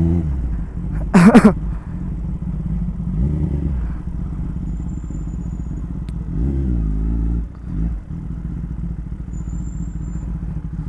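Superbike engine running at low speed under a steady rumble, with two short rises and falls in revs a few seconds apart. A loud brief sound cuts in about a second in.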